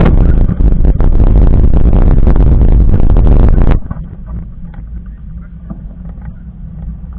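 Mountain bike ridden over a rough trail: heavy wind rumble on the camera microphone, with the bike rattling and clattering over bumps. About four seconds in it drops abruptly to a much quieter low rumble with a few faint ticks.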